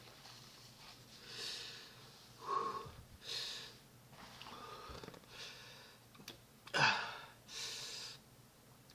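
A man breathing hard and wheezing in and out through a mouth and throat burning from super-hot pepper extract, about seven separate breaths, the loudest near the end.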